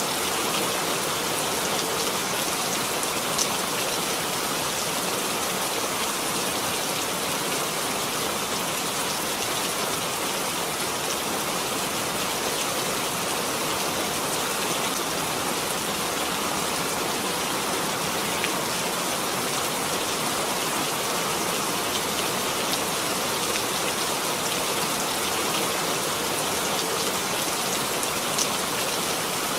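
Steady rain falling, a constant even hiss with a few distinct drop ticks, around 3 seconds in and near the end.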